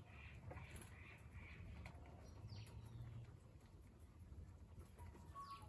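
Near silence with a few faint bird chirps and a short held call near the end.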